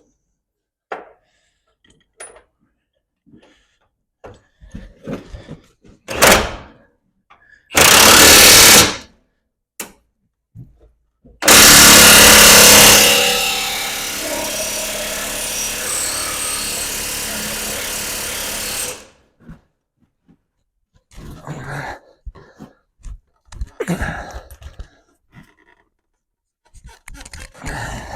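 Power tool driving bolts: a short burst, a second burst of about a second, then one run of about seven seconds, loudest in its first second and a half and then steady. Light metal clinks and knocks come between the runs.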